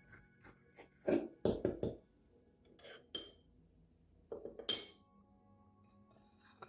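Kitchenware handled on a counter: a quick cluster of knocks and clinks about a second in, then another around four and a half seconds in, ending in one bright ringing clink like glass or metal.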